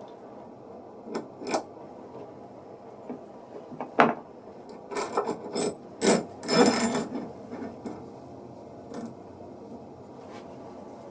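A few sharp knocks of wood, then a couple of seconds of wood rubbing and clattering against wood, and one last light knock near the end.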